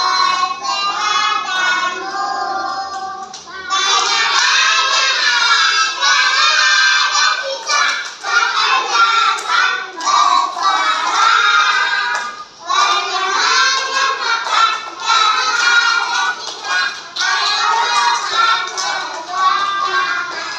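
A group of young kindergarten children singing together loudly, with a short pause about twelve seconds in before the singing resumes.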